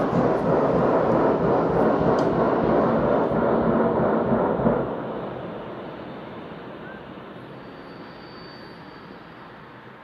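A loud, rough rumbling noise from the sky, holding steady for about five seconds and then slowly dying away.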